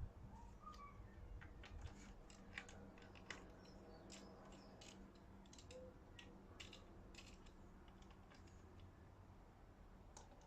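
Faint, irregular light clicks and taps of hand tools and metal parts being handled, over a low steady hum.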